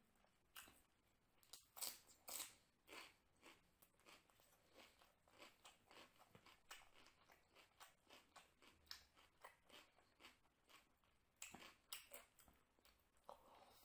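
Close-up chewing of a crisp raw cucumber slice: a run of short crunches, about two a second, with a quicker cluster of crunches near the end.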